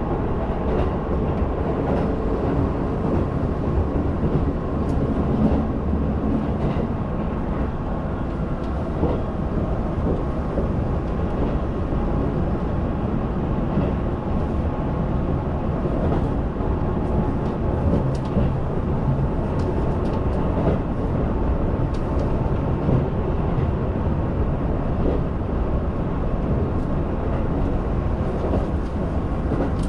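A Keihan limited express train running, heard from inside the passenger car: a steady rumble of wheels and running gear on the rails, with a few faint ticks.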